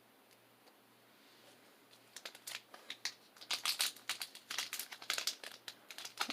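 Foil Pokémon booster-pack wrapper being handled and torn open, a run of crinkling that starts about two seconds in and grows louder.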